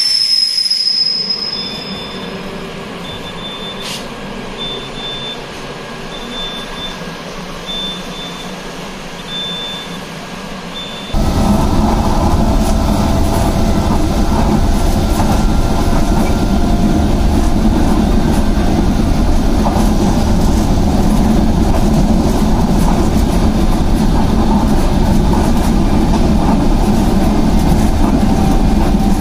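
A high electronic beep repeats about once a second beside the train door. About eleven seconds in, it gives way abruptly to the loud, steady rumble and rush of a Vande Bharat Express electric train running fast along the track.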